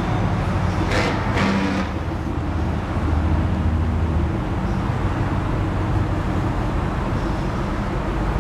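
Steady low vehicle rumble with an outdoor hiss. A brief louder whoosh comes about a second in.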